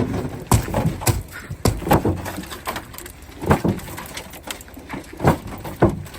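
Repeated blows on a pickup truck's body: about eight sharp metal bangs and crashes, irregularly spaced, some ringing briefly after the hit.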